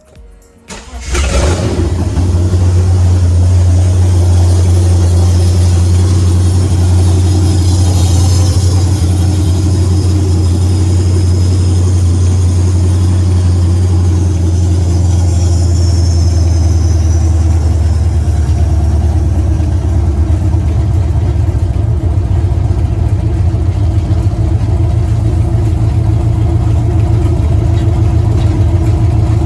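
Holden VS ute's 5.0-litre V8 starting about a second in and then idling steadily, running with no air cleaner on, its first run after the manifolds were refitted.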